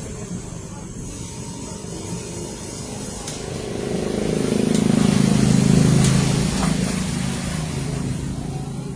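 Low engine rumble of a passing vehicle that swells to its loudest about five to six seconds in and then fades.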